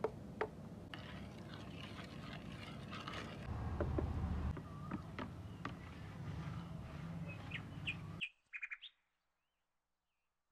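Birds chirping over a steady background, with a few sharp clicks and a low rumble near the middle. Everything cuts off abruptly about eight seconds in.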